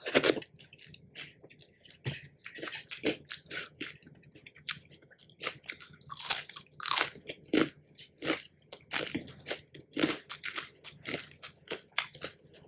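Close-miked eating sounds: irregular crisp bites and crunchy chewing of crunchy food, with the loudest crunches near the start and about six to seven seconds in.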